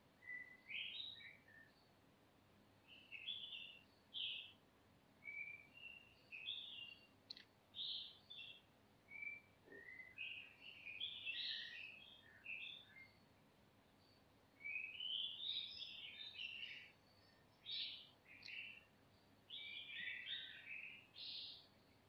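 Small birds chirping in short, irregular twittering phrases of varied pitch, fairly quiet, with brief gaps between clusters.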